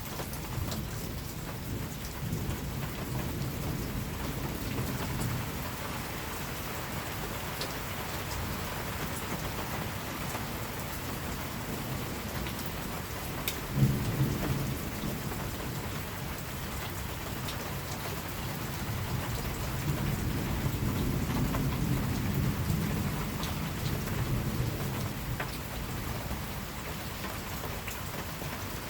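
Steady rain falling, with thunder rumbling. A sharp thunderclap comes about halfway through, and a longer rolling rumble swells in the last third.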